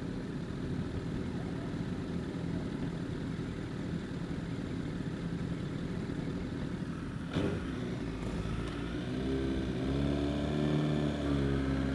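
Motorcycle on the move: a steady low rumble and wind noise, with a short knock about seven seconds in, then a motorcycle engine's note coming up and rising slightly from about nine seconds in.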